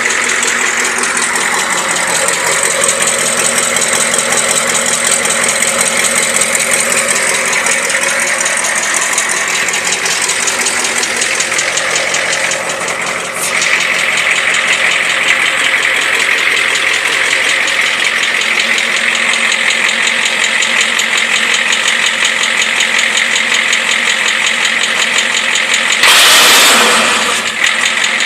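1984 Ford F-250's 6.9 L International Harvester V8 diesel idling steadily through a 5-inch straight pipe, freshly cold-started. Near the end there is a brief louder burst.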